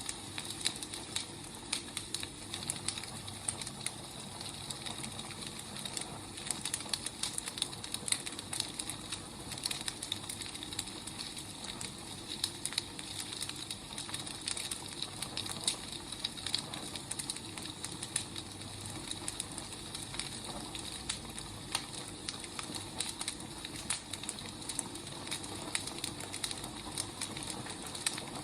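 Wood fire burning: a steady soft hiss with frequent small, irregular crackles and pops of burning firewood.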